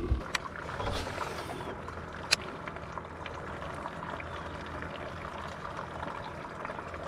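Steady trickle of running water, with a couple of sharp clicks about half a second and two seconds in.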